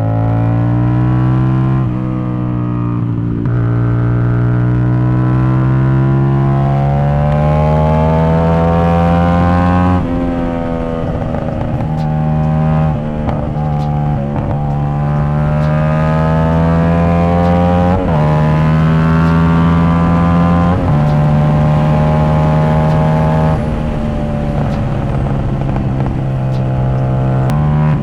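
CFMoto 450SS parallel-twin motorcycle engine through an aftermarket exhaust, under way. The revs climb and fall again and again, with sudden steps in pitch at the gear changes.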